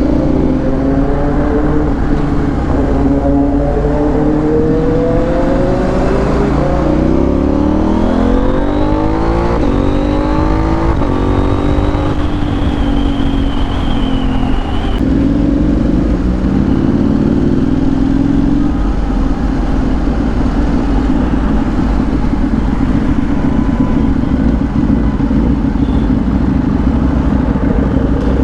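Motorcycle engine heard from the rider's camera, rising in pitch as it accelerates, dropping at a gear change about halfway through, then running steadily, with heavy wind rush on the microphone.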